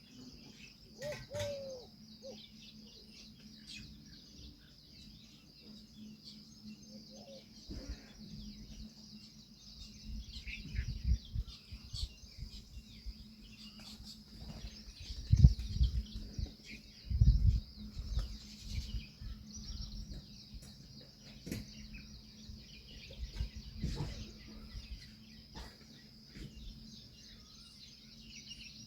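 Outdoor bird chirps scattered over a steady high hiss, with several loud low thumps about halfway through.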